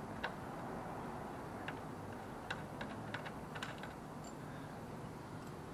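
Scattered light clicks and ticks of parts and tools being handled while a front disc brake is fitted to an electric bike, about eight in all, bunched in the first four seconds, over a steady low hiss.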